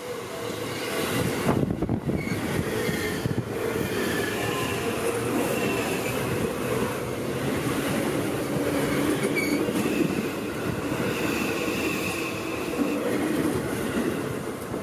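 Seibu 001 series Laview limited express train running past close by without stopping: a steady rumble of wheels on rail, rising about a second in, with high whining tones coming and going.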